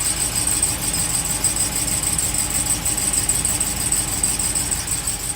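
A 2018 Ram 2500's 6.4-litre Hemi V8 running cold, with a steady high-pitched chirping squeal over the engine. The chirp is the truck's cold-engine noise, and the owner does not know its cause.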